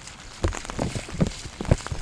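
Rain drops tapping, with several dull thumps among them.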